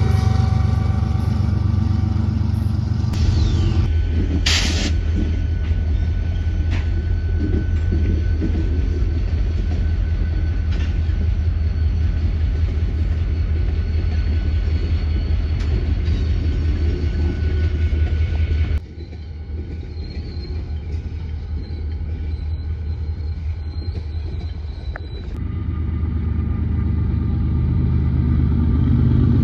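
Freight train passing: a steady low diesel locomotive rumble with rail cars rolling, and a sharp clank about five seconds in. The sound drops suddenly about two-thirds of the way through, then swells again near the end.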